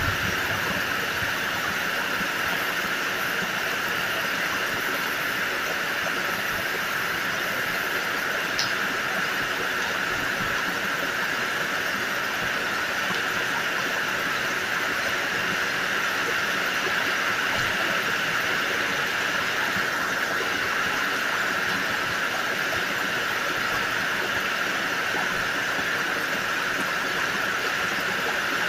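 Heavy rain falling steadily on trees and foliage, a continuous even hiss.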